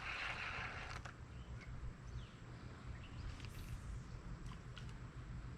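Faint creekside outdoor ambience, with a few short bird chirps and a single click about a second in.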